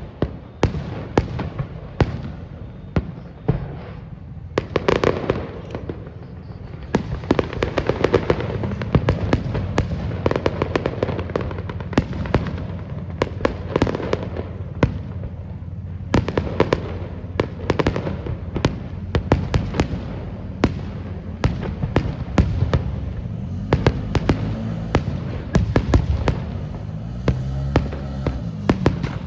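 Aerial fireworks bursting in rapid succession: many sharp bangs and crackles over a continuous low rumble, getting denser and louder about seven seconds in.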